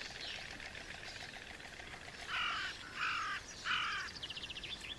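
Three harsh, crow-like caws in quick succession, about two-thirds of a second apart, over a faint background of quick ticking.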